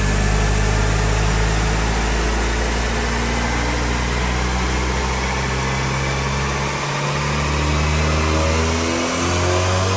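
Turbocharged 1.8-litre four-cylinder engine of a Seat Ibiza running under load on a rolling road, its pitch climbing steadily from about six seconds in as the revs rise.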